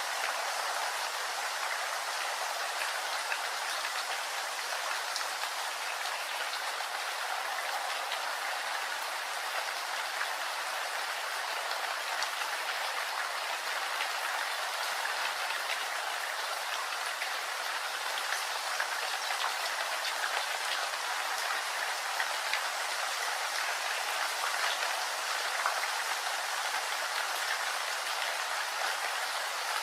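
Steady rain falling, an even hiss with the fine ticks of individual drops.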